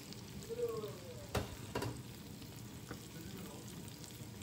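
Sliced onions and pineapple chunks sizzling gently in oil in a nonstick frying pan, the start of a pineapple sauce for duck. There are two light knocks of a metal ladle on the pan about a second and a half in.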